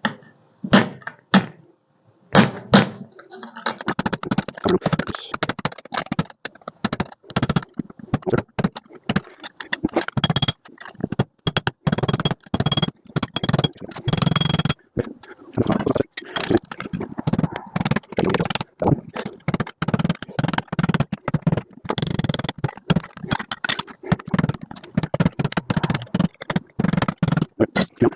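Hammer tapping steel sheet metal over an anvil edge, folding a patch-panel flange to a 90-degree bend. A few separate blows come first, then about three seconds in a fast, steady run of metallic taps, with a light ring from the metal now and then.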